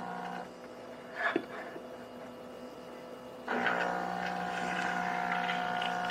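De'Longhi La Specialista espresso machine starting an espresso shot: a steady hum stops early on, a brief click follows, and about three and a half seconds in the pump starts running with a louder, steady buzzing hum.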